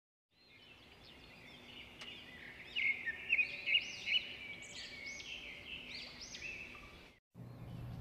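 Several birds chirping and singing in short, arched, high notes, fading in at the start and cutting off abruptly about seven seconds in.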